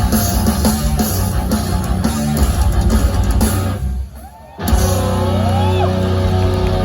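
Live heavy metal band playing loud distorted guitars and drums. The band stops dead about four seconds in, then comes back in with a held, ringing guitar chord with bending notes over it.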